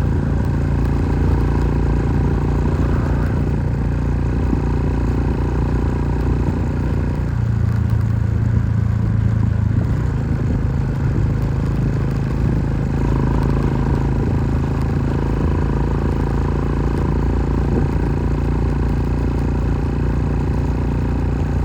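An engine running steadily, its low note shifting for a few seconds partway through.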